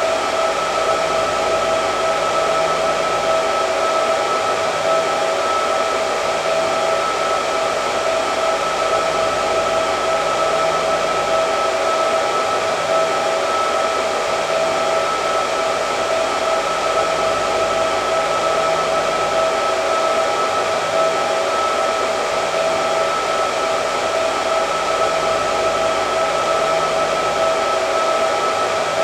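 Hair dryer running continuously: a steady airy rush with a constant whine in it, unchanging throughout.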